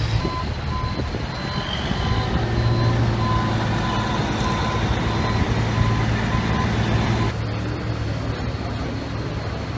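A heavy vehicle's engine running, with a reversing alarm beeping steadily over it. The beeping and engine sound stop abruptly about seven seconds in, leaving a lower, duller rumble.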